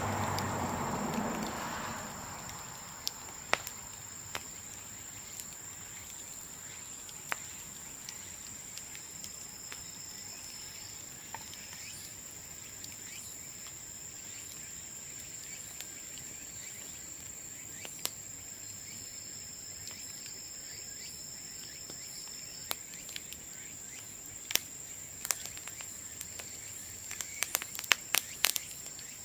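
Bamboo bonfire crackling, with scattered sharp pops that come thick and fast near the end, over a steady high-pitched insect chirr. A louder rushing noise fades out in the first two seconds.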